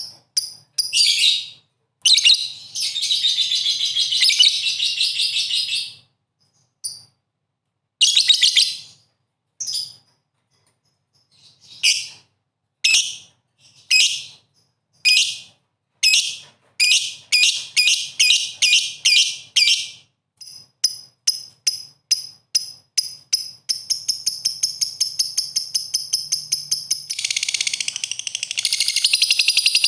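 Songbird calling with sharp, high-pitched chirps: a dense burst of chirping, then single notes about a second apart that quicken into a rapid run and a continuous trill near the end.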